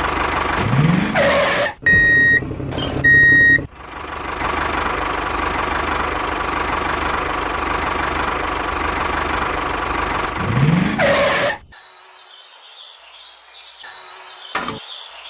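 Small engine of a miniature tractor running steadily, rising in pitch briefly near the start. Two short, high beeps come around two and three seconds in. The engine sound stops abruptly a few seconds before the end, leaving a few faint clicks.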